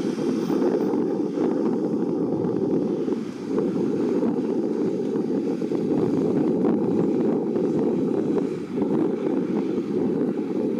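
Steady low roar of jet aircraft engines mixed with wind rumbling on the microphone, dipping briefly twice.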